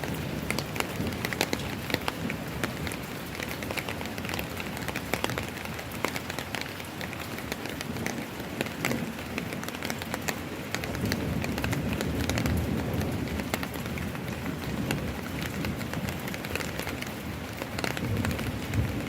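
Steady rain falling on hard surfaces, with many sharp drop taps. A low rumble swells for a few seconds past the middle.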